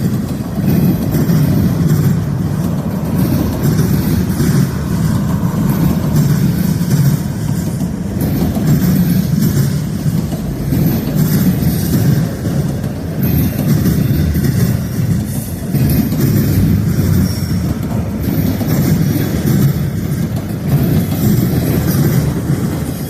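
Freight train rolling past at track side, a steady noise of cars and wheels on the rails.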